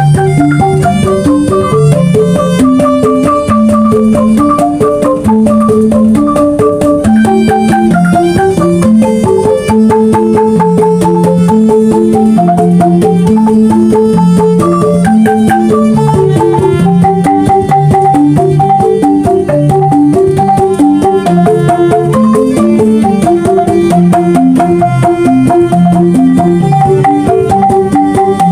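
Banyuwangi angklung ensemble playing a traditional gending: quick runs of struck bamboo notes over a repeating lower melodic pattern, with percussion keeping a steady beat.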